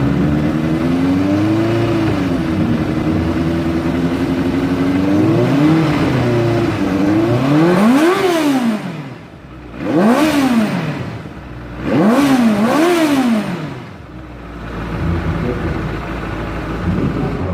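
A vehicle engine idling, then revved in about five quick blips, each rising and falling in pitch, before dropping back to a lower idle.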